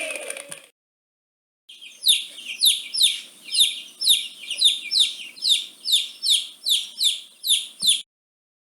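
Chick peeping: a run of about a dozen high, short peeps, each sliding downward in pitch, about two a second. Just before it, the end of a lower, drawn-out call fades out.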